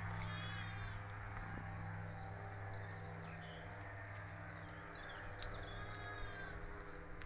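Small birds singing, high chirps and fast trills in several bursts, over a steady low hum that fades after a few seconds, with one sharp click about five seconds in.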